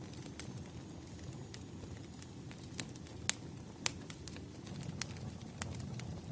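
Wood fire crackling: irregular sharp pops and snaps, two louder ones a little past the middle, over a low steady rumble.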